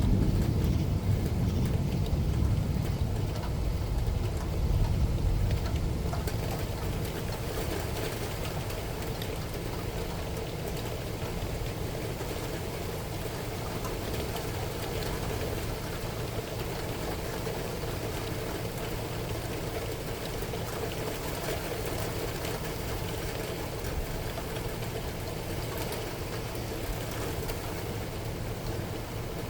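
Steady rainfall with a low roll of thunder that rumbles through the first six seconds or so and fades away.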